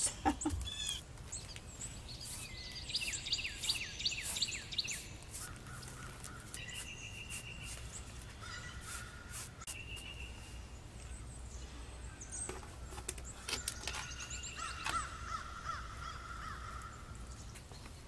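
Wild birds calling and singing, several voices overlapping: a quick run of falling chirps a few seconds in, short whistled notes in the middle, and a longer buzzy call near the end.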